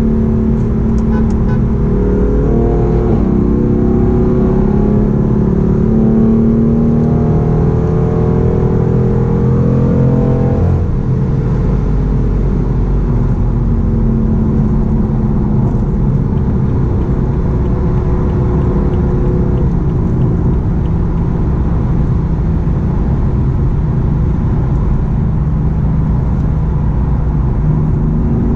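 BMW M4's twin-turbo straight-six through an Akrapovic full-system exhaust, accelerating hard with the engine note climbing in pitch through a gear change for about ten seconds. The revs then drop sharply as the throttle is lifted, and the car settles into steady cruising with engine drone and road rumble.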